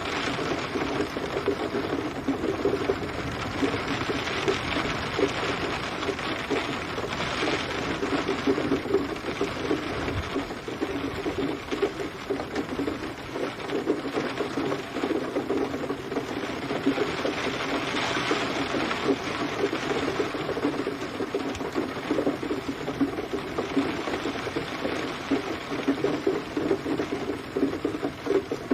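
Rain falling steadily, a dense even hiss of many drops striking a surface.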